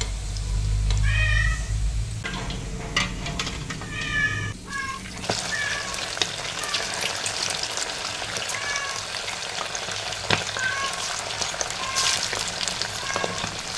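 Chicken 65 pieces deep-frying in hot oil in a kadhai: a steady sizzle with fine crackling of bubbling oil. Two brief high, wavering calls stand out about a second and four seconds in, over a low hum that fades after the first few seconds.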